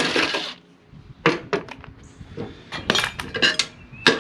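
Metal tools and mower hardware clinking as they are handled: a brief noisy rush at the start, then a string of sharp metallic clinks with short ringing.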